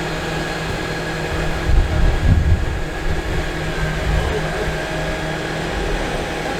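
Steady machine hum with a few low rumbles about two seconds in.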